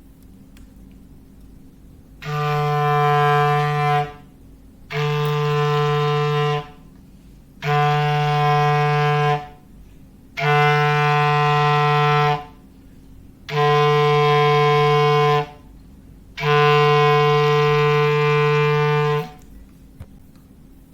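Foghorn sound effect: six long, steady, low blasts on one unchanging pitch, about a second apart, the last a little longer than the rest.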